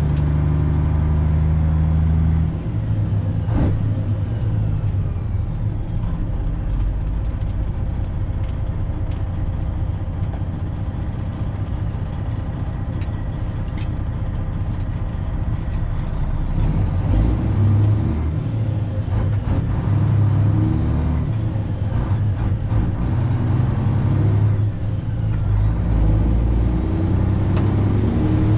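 Semi truck's 12.7-litre Detroit Diesel engine pulling through the gears, its note stepping with each shift, with a high whine rising and dropping as the engine climbs and falls in speed.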